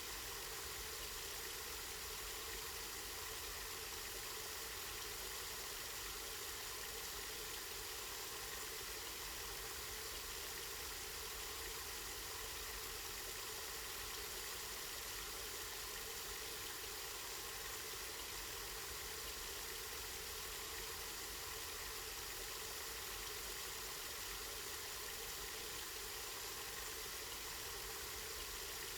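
Water running steadily from a spring, an even, unbroken rushing splash.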